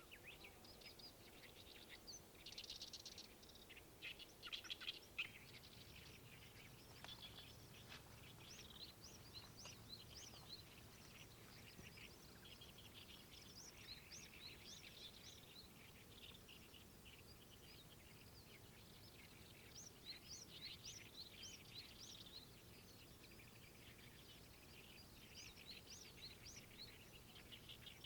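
Small songbirds chirping and singing in quick runs of short, high notes, with a few louder calls about three to five seconds in, over a faint outdoor hush.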